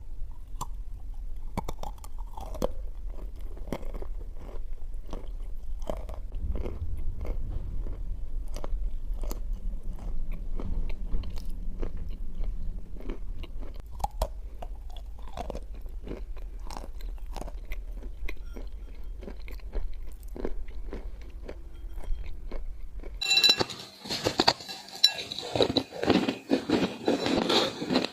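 Dry clay being chewed: a dense run of irregular crisp crunches. For most of the stretch a steady low hum lies under them. Near the end, after an abrupt change, the crunches become louder and sharper.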